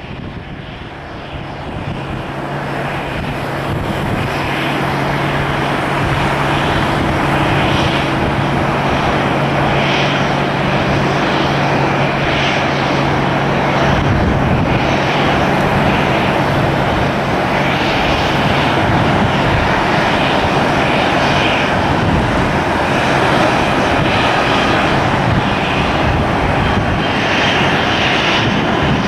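Airliner's engines running close by, the noise building over the first few seconds and then holding loud and steady, with a low hum in it that fades out about two-thirds of the way through.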